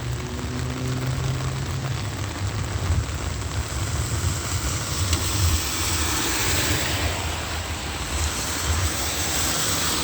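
Road traffic in the rain: a low engine rumble under the hiss of tyres on wet pavement, the hiss swelling about six seconds in as a vehicle passes.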